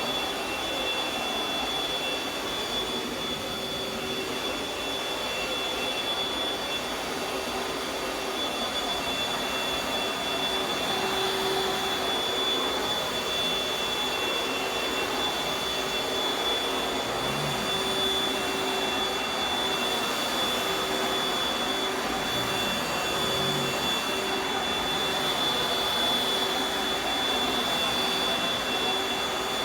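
Panasonic Jet-Flow upright vacuum cleaner running steadily: a constant rush of air with a steady high whine over it.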